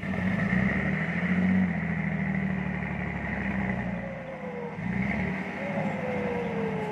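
Heavy diesel engine revving hard and running under load, with a steady high whine over it. It eases off about four seconds in, picks up again, and its pitch sags in the last couple of seconds.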